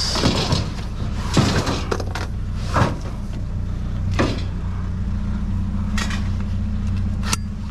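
A vehicle engine idling steadily, with about six sharp metal clanks and rattles of scrap being handled, roughly one every second or so.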